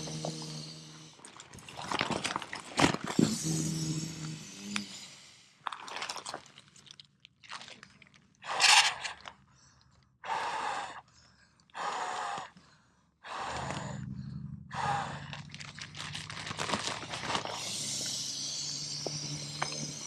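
Nylon pump sack of a Nemo Tensor sleeping pad crinkling as it is filled, folded shut and squeezed, with air rushing through in several separate pushes of about a second each.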